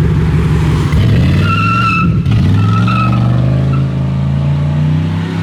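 A car engine revving hard, with tires squealing twice near the middle. The engine pitch then climbs steadily as the car accelerates away.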